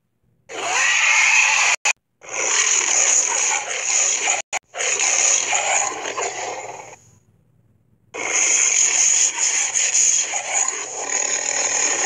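Cartoon allosaurus growl sound effects: a series of long, rough growls broken by short gaps. The last one starts about eight seconds in.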